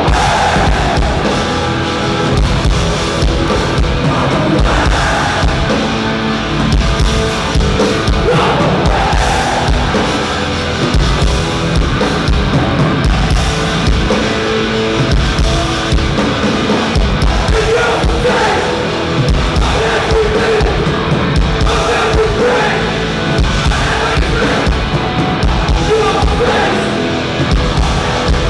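Live hardcore punk band playing at full volume: distorted electric guitars, bass and pounding drums, with yelled vocals and crowd noise mixed in.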